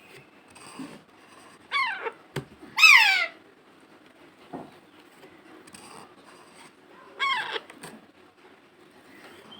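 Pet parrot squawking: three loud calls, each sliding down in pitch, two close together about two seconds in and a third near the end, with a short click between the first two.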